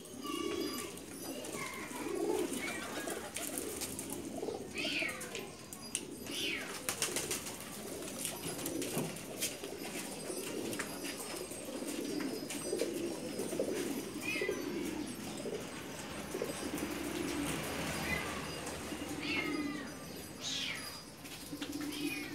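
A flock of domestic racing pigeons cooing continuously, many overlapping low warbling coos. There are occasional higher chirps, and a run of sharp clicks or flutters a few seconds in.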